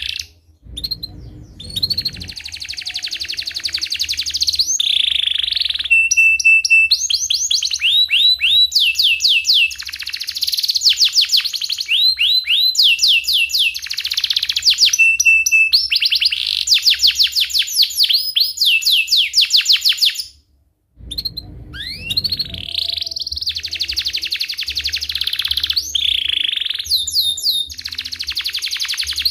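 Domestic canary singing a long, continuous song of fast rolling trills and runs of rising chirps. The song breaks off briefly near the start and again about 20 seconds in.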